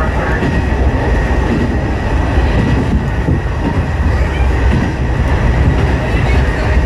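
Hisatsu Orange Railway diesel railcar running along the line, heard from inside the car: a steady low rumble of engine and wheels on the rails with a thin steady whine above it.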